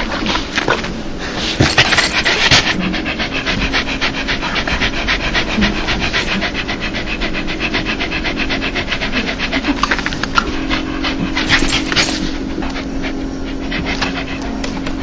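A dog panting quickly and steadily, the open-mouthed huffing of a happy, excited dog often called dog laughter, with a louder stretch about two seconds in and again near the end of the second third.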